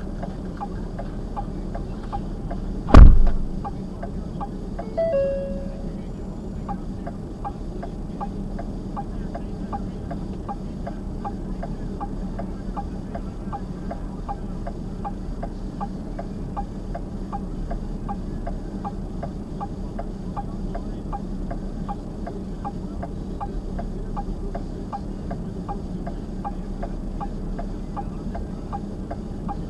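Steady rhythmic ticking of a car's flasher over a low engine hum, heard inside the car. About three seconds in a single loud thump, like a car door shutting, and about two seconds later a short electronic chime.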